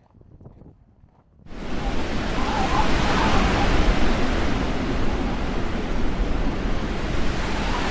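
Storm wind buffeting the microphone with a loud, steady rush and low rumble, starting abruptly about a second and a half in after a quiet moment.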